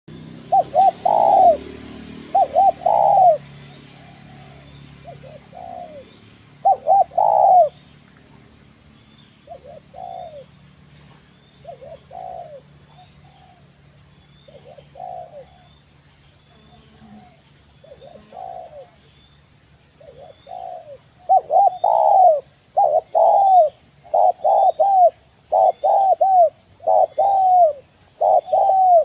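Spotted dove (tekukur) cooing in short phrases of two or three notes each. The phrases come loud at first, sparse and fainter through the middle, then fast and loud again over the last eight seconds. A steady high-pitched whine runs underneath.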